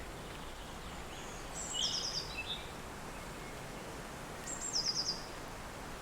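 Steady wind noise with a songbird singing two short phrases, about one and a half seconds in and again about four and a half seconds in. Each phrase is a high note followed by a quick run of about five high notes.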